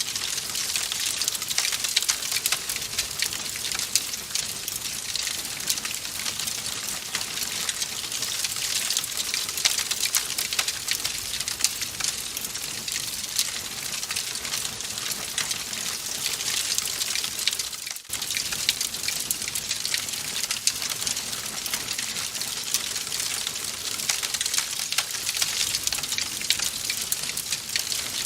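Fireplace fire crackling: a dense, steady stream of small pops and snaps over a hiss, with a momentary dip in level about two-thirds of the way through.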